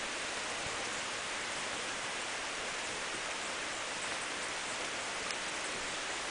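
Gentle, steady rain falling, an even hiss with a few faint drops ticking through it.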